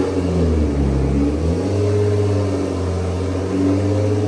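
Freshly swapped engine in a Nissan GT-R running, its pitch shifting up and down a little as it is revved lightly.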